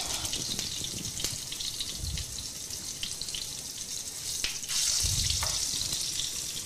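Sesame-crusted albacore tuna searing in a ripping-hot pan of oil: a steady sizzle with scattered sharp pops and crackles. The sizzle swells louder about five seconds in.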